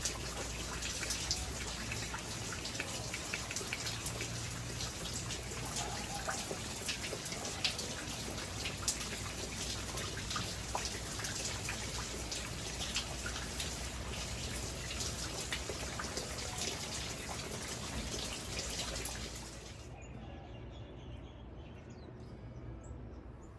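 Rain pattering steadily, a dense hiss full of small drop ticks; about twenty seconds in it cuts to a quieter, duller hiss.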